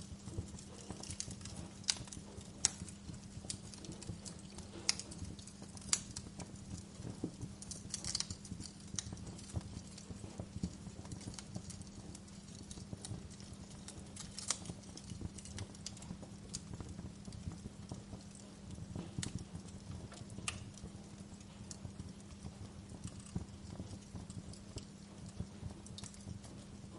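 Wood fire burning in a fireplace, crackling with irregular sharp pops and snaps over a low rumble, with a steady low hum underneath.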